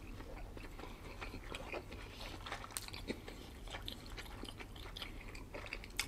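Chewing of sushi, a faint scatter of small wet mouth clicks and smacks.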